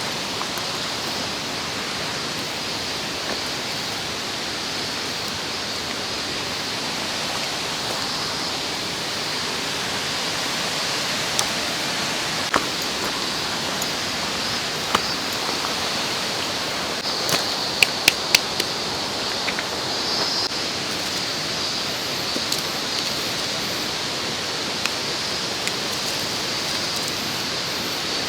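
Mountain stream rushing steadily over rocks. A few sharp clicks and knocks break through, three in quick succession about two-thirds of the way in.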